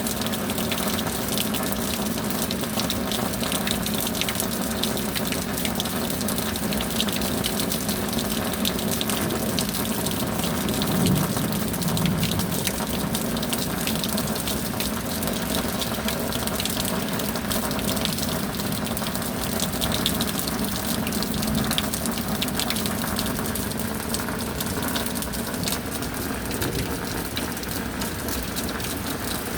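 Steady rain, a constant rush of falling water with a fine patter of drops, swelling slightly about eleven seconds in.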